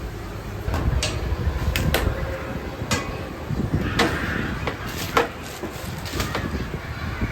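Ramen-shop kitchen clatter: irregular sharp knocks and clanks of cooking utensils and pans, the loudest a little after five seconds in, over a steady low rumble of kitchen equipment.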